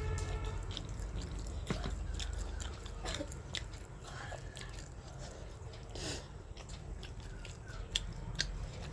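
A person chewing and biting mouthfuls of roti and vegetable curry close to the microphone, with scattered small mouth clicks and smacks over a low steady hum.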